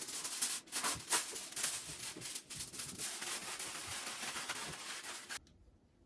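Continuous rustling and rubbing with scattered sharp clicks, like something being handled or crinkled, stopping suddenly near the end.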